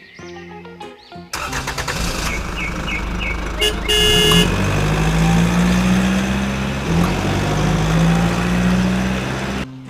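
Vehicle engine running steadily, with a brief horn-like honk about four seconds in.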